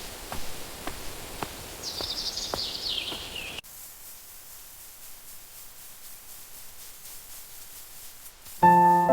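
Countryside ambience: light scattered clicks and a bird's high descending trill, then after an abrupt cut a quieter steady outdoor hiss. Piano notes come in near the end.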